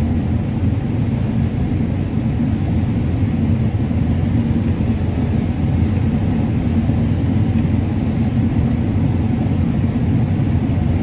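Combine harvester running steadily while cutting corn: a constant low rumble that holds level without change.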